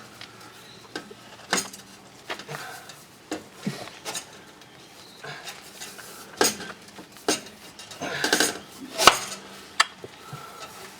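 Irregular metallic clinks and knocks of exhaust hardware being handled and fitted, with a busier cluster of clinks near the end. The parts are the bolts and springs of a titanium exhaust.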